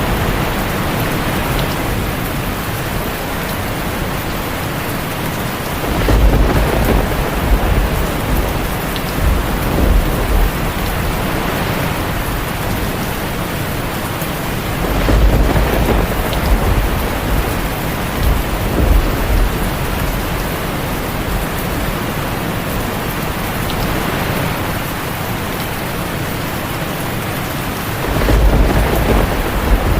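Heavy rain drumming steadily on a tin roof, with thunder rumbling three times: about six seconds in, around the middle, and near the end.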